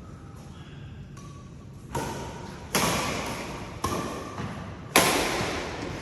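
Badminton rackets striking the shuttlecock in a rally: sharp cracks roughly once a second, starting about two seconds in, each ringing on in the echo of a large hall.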